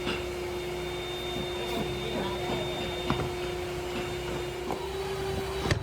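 Factory machinery running with a steady hum and low rumble, with scattered metallic clicks and knocks and a sharp knock near the end.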